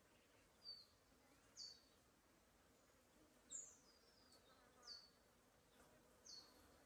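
Faint forest bird calls: a series of short, high notes, each sweeping quickly downward, repeated about every second or so, with softer calls underneath.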